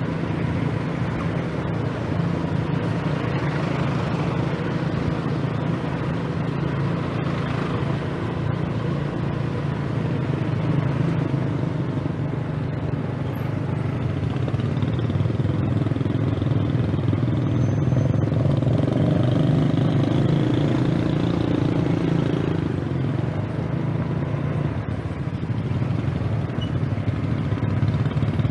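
Scooter engine running steadily while riding, with wind and road noise; it gets somewhat louder for a few seconds past the middle.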